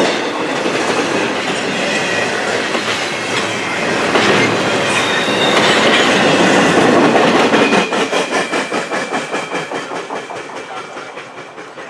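CSX double-stack intermodal freight train rolling past, with a steady rumble and clatter of steel wheels on rail. About two-thirds of the way in it settles into a regular clickety-clack over the rail joints that fades as the train pulls away.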